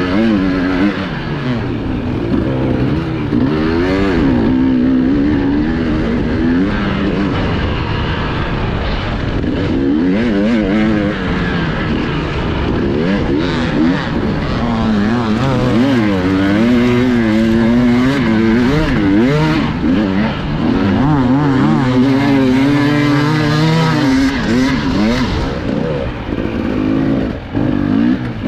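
Enduro motorcycle engine revving up and down without pause as the throttle is worked over rough terrain, heard from the rider's onboard camera.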